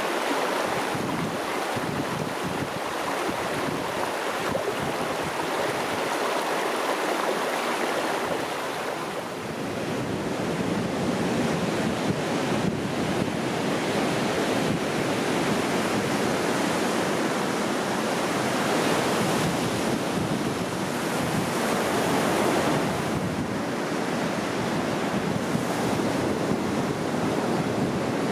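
Steady rushing water with no other clear sound. For the first several seconds it is a running stream, then, after a brief dip about nine seconds in, ocean surf washing in with wind.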